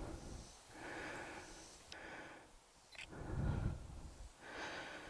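Faint breathing of a person walking: several soft breaths about a second apart, with a few light clicks between them.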